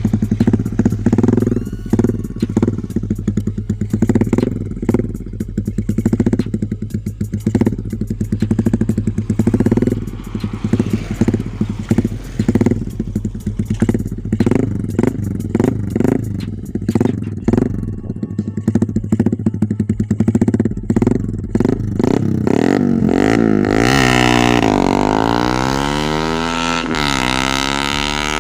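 Motorcycle engines revved in repeated throttle blips. Near the end, one accelerates hard: its pitch rises, drops at a gear change, and rises again.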